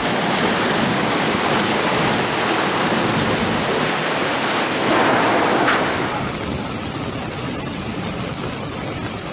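Heavy rain pouring in a storm, a steady dense hiss that swells briefly about five seconds in.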